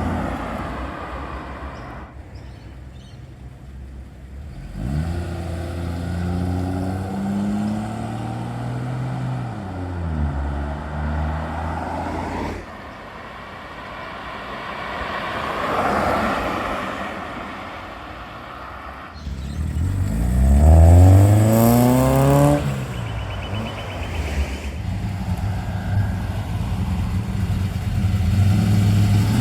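Cars driving away one after another, their engines rising in pitch as they accelerate. The loudest pull comes about twenty seconds in. Near the end another car's engine runs steadily.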